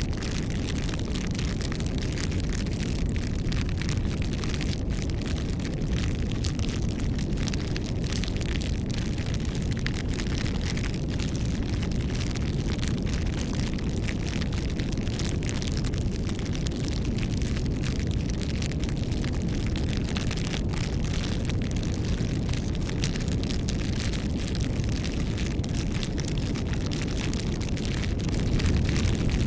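Bonfire burning: a steady low rumble of flames with frequent small crackles and pops of burning wood.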